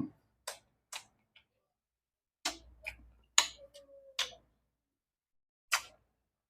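Eating sounds: a few short, crisp clicks and crunches, about seven of them spaced irregularly, with near silence in between.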